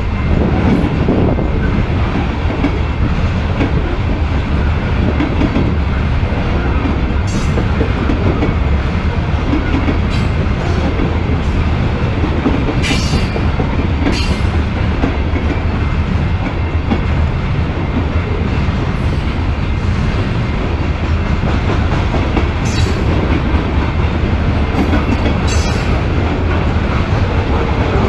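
Freight train of loaded covered hopper cars rolling past at speed: a steady rumble and clatter of steel wheels on the rails, with a few sharp clicks scattered through it.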